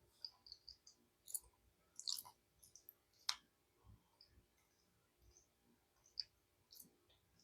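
Near silence broken by scattered faint clicks, the strongest about three seconds in: lip smacks and tongue clicks from a mouthful of peanut butter being tasted.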